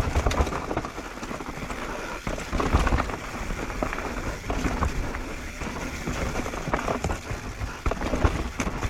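Mountain bike riding down a rough dirt trail: a steady crunch of tyres on dirt and stones, with frequent clicks and knocks as the bike rattles over rocks and roots.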